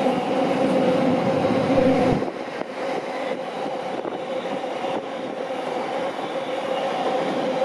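Train running past at close range: wheels on the rails under a steady whine, with a heavier rumble that drops away about two seconds in.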